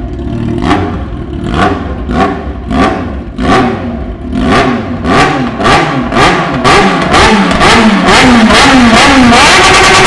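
Motorcycle engine revved in repeated short blips that come faster and faster, each rising and falling in pitch, then held at a steady high rev near the end.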